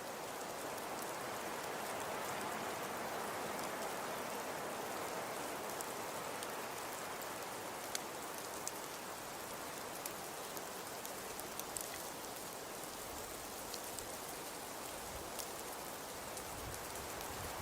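Fireplace crackling: a steady hiss with small pops scattered through it, a sharper pop about eight seconds in.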